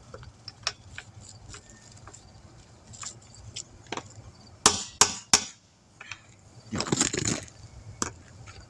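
Hammer tapping on a wheel rim's balance weights: small metal clinks, then three quick sharp knocks about five seconds in and a brief scraping rasp near seven seconds.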